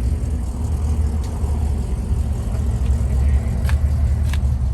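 A car engine idling steadily with a low, even rumble. Two short sharp clicks come near the end.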